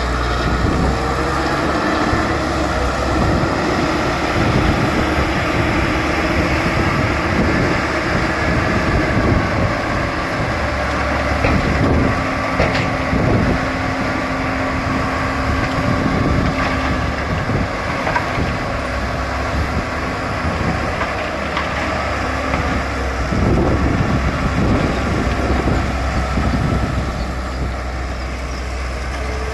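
Bulldozer's diesel engine running under load, steady throughout, with scattered metallic knocks and clanks.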